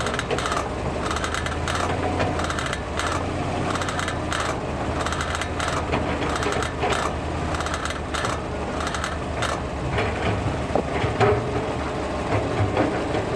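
Brembo brake caliper creaking in a fast run of grating creaks, "gigigigi", as the brake pedal is pressed hard with the car at a standstill, over the low hum of the idling engine. The noise comes from grease that has run out, washed away by heat, which is common with Brembo brakes.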